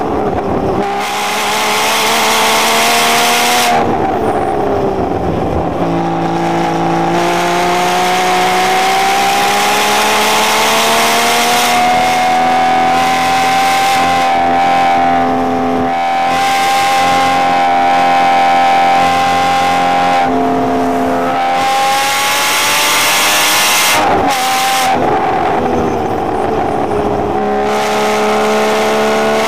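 Porsche sports car's engine heard from inside the cabin under hard track driving: it revs up through the gears with short breaks at each shift, holds a steady high note for several seconds in the middle, drops back near the end and climbs again, over steady road and wind noise.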